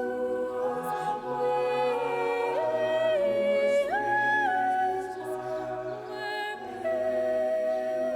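Sacred vocal music: voices sing long held notes that step up and down in pitch over a steady low drone.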